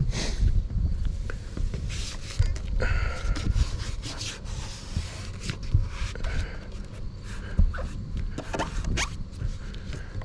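Irregular scraping, rustling and footstep sounds of someone moving about on a roof and handling the roofing surface, over a steady low rumble.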